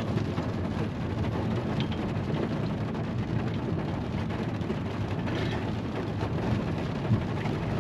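Light rain and a steady low rumble during a thunderstorm, heard from inside a vehicle.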